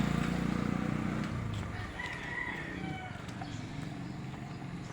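A rooster crowing once, about two seconds in, while the engine of a passing vehicle fades out at the start.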